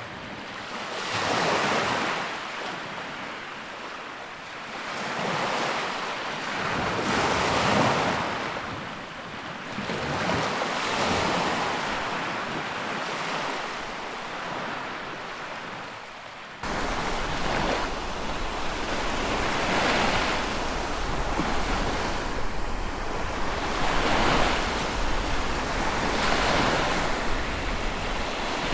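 Sea waves washing in, swelling and fading every two to three seconds. About two-thirds of the way through the sound changes abruptly to louder, more continuous surf with a low wind rumble on the microphone.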